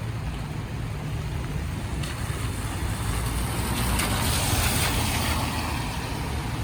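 A car passing on a wet street: tyre hiss swells to its loudest about four to five seconds in, then fades, over a steady low rumble of city traffic.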